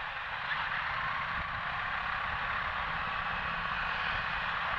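Motorcycle on the move: a steady rush of wind and road noise with low engine rumble underneath.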